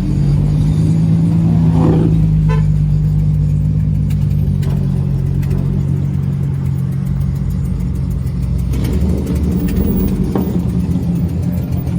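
Car engine and exhaust running with a steady low drone, turning rougher and noisier about nine seconds in.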